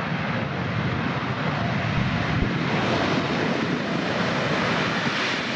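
Boeing 787-9 Dreamliner's twin jet engines, a steady, even roar with no change in pitch.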